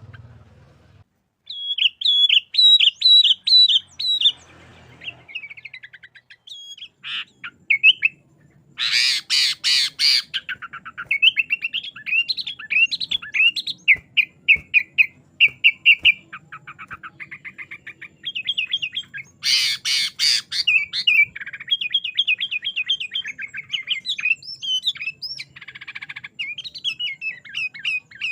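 Sooty-headed bulbul singing energetically in rapid runs of short chirping notes, broken by two harsh rattling bursts about nine and twenty seconds in. A faint low hum lies underneath.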